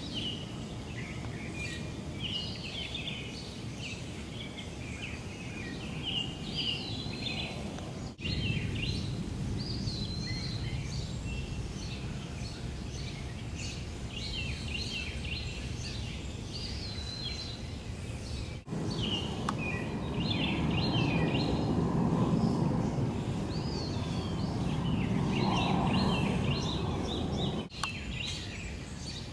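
Backyard birds chirping and singing, with many short, quick calls, over a steady low background rumble that swells for a few seconds in the last third. The sound cuts out briefly three times, at about 8, 19 and 28 seconds in.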